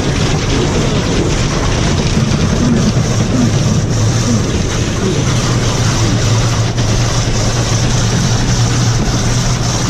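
Steady noise of a car heard from inside the cabin: a constant low hum under a loud, even rush of air and road noise.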